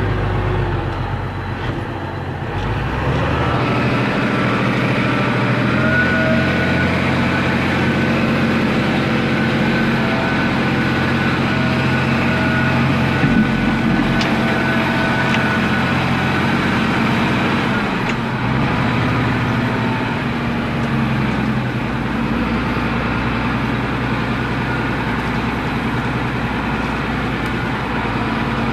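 MTZ-1221 tractor's six-cylinder turbo diesel engine running steadily under heavy load, hauling a loaded timber trailer across soft peat. The engine note dips briefly about two seconds in, then holds at a steady working speed with a faint whine above it.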